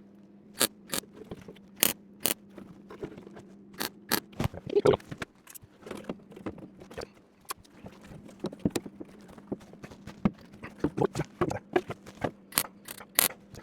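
MIG welder tack-welding a steel wheel-arch panel: short, irregular crackles and pops over a steady faint hum.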